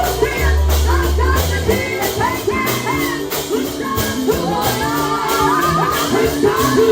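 Live gospel music: singing over a band with a steady drum beat. A heavy bass line drops out about two seconds in.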